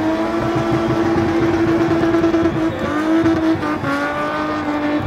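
BMW M20 straight-six engine held at high revs in a steady, nearly constant note as the car spins its rear tyres. The pitch dips briefly about three seconds in and again near four seconds.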